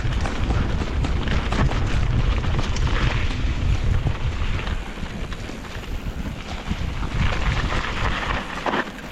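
Wind buffeting the microphone of a mountain biker riding down a dirt trail, with rattling clicks from the bike and tyre noise over the ground. The wind rumble eases about halfway through.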